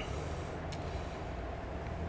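Steady low background hum, with a faint click about two-thirds of a second in.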